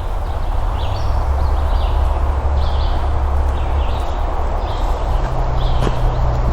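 Hikers' footsteps crunching on a dirt trail in a steady walking rhythm, about one to two steps a second, over a steady low rumble.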